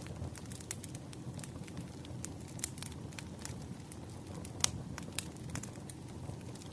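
Firewood burning, crackling with irregular sharp pops over a low steady rumble; one louder pop comes a little past the middle.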